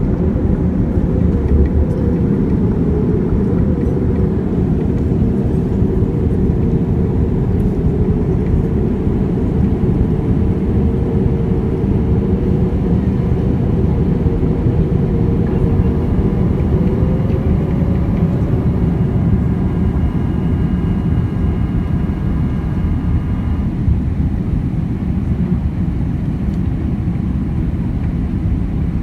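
Boeing 787 jet engines and airflow heard from inside the passenger cabin: a steady, loud low rumble with a faint wavering whine.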